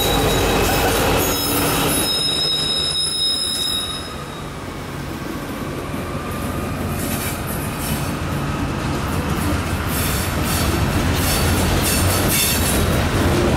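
Norfolk Southern coal train passing close by. The GE D9-40CW diesel locomotive runs past in the first two seconds, and a high-pitched squeal follows for about two seconds. Then coal hopper cars roll by, their wheels rumbling and clicking over the rails and growing louder toward the end.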